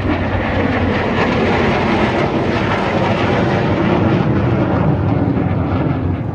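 A MiG-17 jet fighter's turbojet engine making a loud, rushing roar as it flies a display pass. The noise builds towards the middle and eases slightly near the end.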